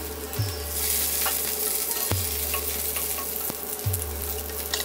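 Garlic slices, mustard seeds, curry leaves and green chillies sizzling in hot oil in a stainless steel frying pan, stirred with a wooden spatula. The sizzle thickens about a second in, with a few sharp pops, over a low steady hum.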